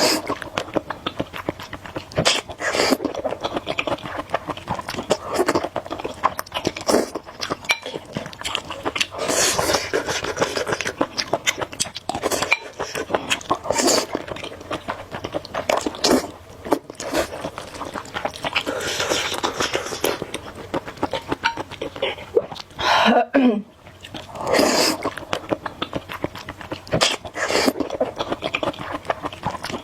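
Close-up eating sounds of spicy instant noodles: repeated wet chewing clicks and several longer noisy slurps, with a short vocal sound about three-quarters of the way through.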